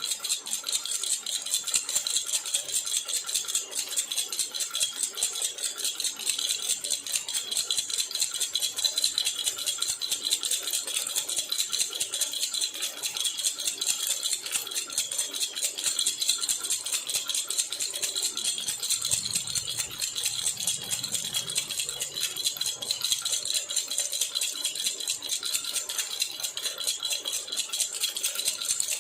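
Baby rattle (jhunjhuna) shaken continuously, a fast, even jingle of many small clicks that keeps going without a break.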